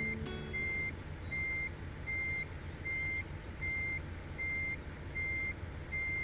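A truck's reversing alarm beeping steadily, one single-pitched beep about every three-quarters of a second, over the low rumble of its diesel engine running as it backs up.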